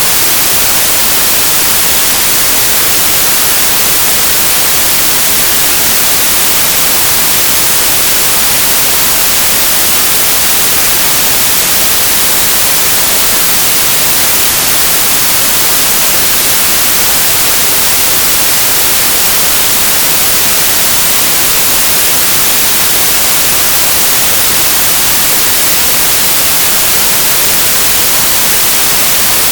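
Synthesized stereo white noise: a steady, even hiss, bright in the highs, with no changes or events.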